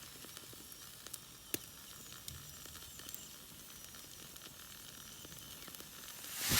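Food sizzling over a small wood fire, a steady hiss with scattered small crackles and one sharper pop about a second and a half in. A loud rushing swell rises right at the end.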